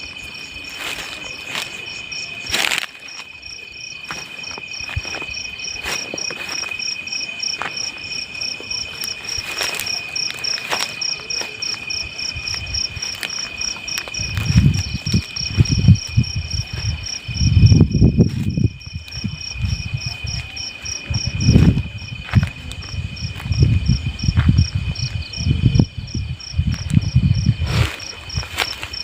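Night insects chirring steadily, with a fast pulsing trill over a couple of steady high tones. From about halfway in, irregular low rumbles come and go, louder than the insects.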